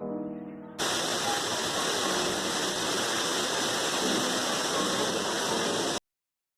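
Piano music ending, then a waterfall's steady, loud rushing water that starts abruptly about a second in and cuts off suddenly near the end.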